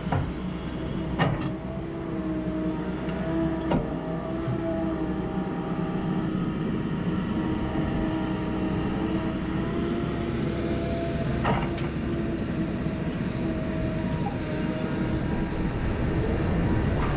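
Heavy equipment engine running steadily, with three sharp metallic clanks.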